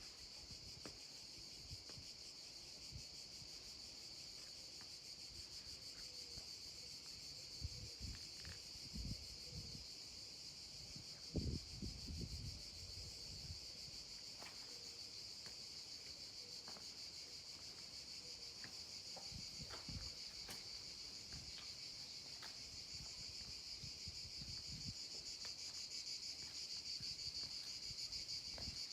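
Insects chirring in a steady, high-pitched drone that grows a little louder near the end, with occasional low thumps.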